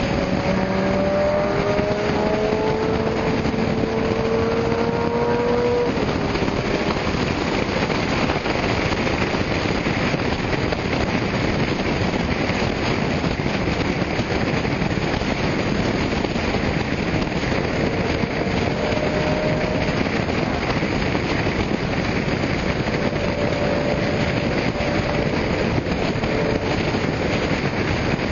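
A car engine accelerating, its pitch rising steadily for about the first six seconds, over a constant rushing noise. Fainter engine tones come and go later on.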